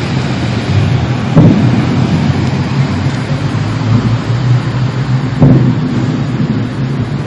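Loud, low, steady droning hum of several held tones over a rumbling haze, with a couple of brief swells: one of the unexplained 'strange sounds' reported around the world.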